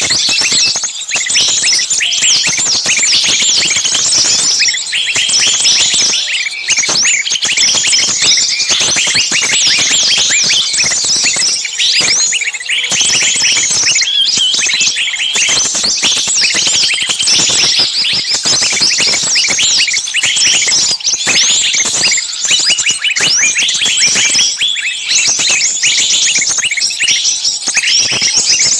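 Dense, continuous chorus of rapid, high-pitched overlapping chirps and short sweeps, like a flock of many small birds calling at once.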